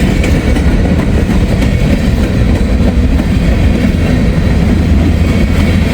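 A freight train of grain hopper cars rolling past: a steady, loud rumble with the wheels clicking over rail joints.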